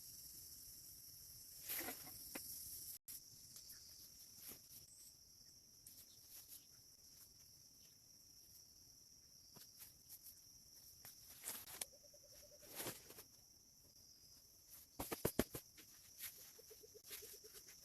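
Faint forest ambience: insects chirring steadily and high, with a few short pulsed calls and scattered sharp clicks, the loudest a quick cluster of clicks near the end.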